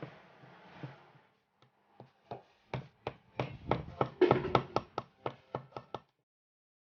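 A run of light, sharp taps and clicks, roughly three a second, starting about two seconds in and stopping near the end.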